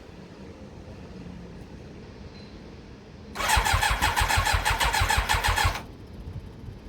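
Yamaha YZF1000R Thunderace inline-four being cranked on its electric starter for about two and a half seconds with an even, rapid chug, not firing, as the freshly rebuilt carburettors are primed; the battery is near flat.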